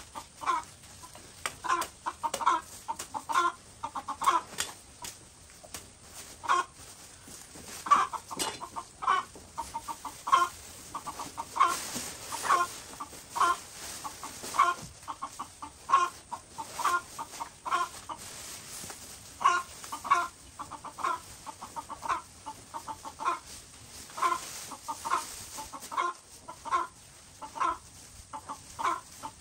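Domestic chickens clucking: many short calls one after another, some overlapping.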